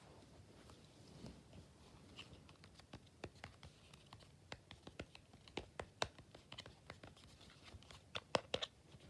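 Irregular light clicks and taps in a small room, coming every few tenths of a second, with a quick run of louder clicks near the end.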